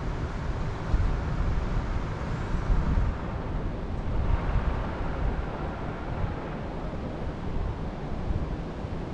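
Wind blowing through the forest, with uneven gusts rumbling on the microphone.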